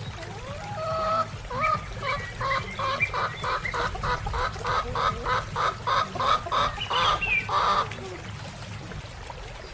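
Chicken clucking in a fast, even series of about three clucks a second, stopping about two seconds before the end, over a low steady rumble.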